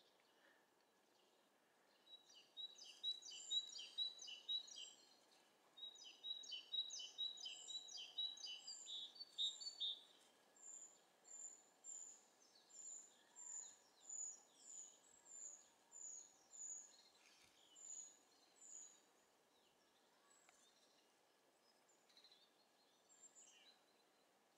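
Bird calls: two bouts of quick, chattering high notes, then a steady series of about fourteen single high-pitched notes, roughly one every two-thirds of a second, fading out after about nineteen seconds.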